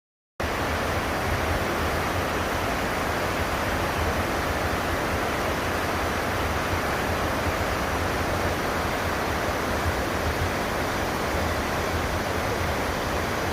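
Waterfall: a steady, loud rush of falling water that cuts in abruptly about half a second in.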